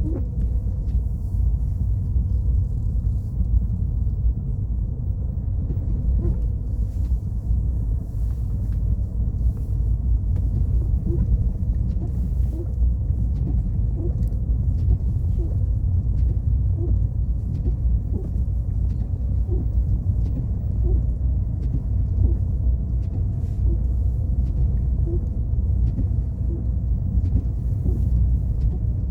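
Car driving on a snowy mountain road: a steady low rumble of engine and tyre noise, with a faint steady engine tone above it and light regular ticks.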